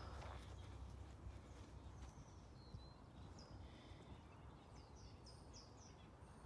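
Quiet outdoor ambience with small birds chirping: a string of short, quick, falling chirps from about halfway through.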